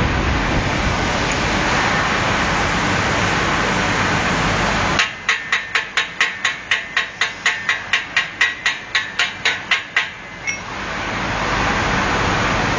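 Air conditioner blowing with a steady rushing noise that cuts off abruptly about five seconds in. A rapid run of sharp clicks follows, about four a second, for some five seconds, and then the rushing comes back on.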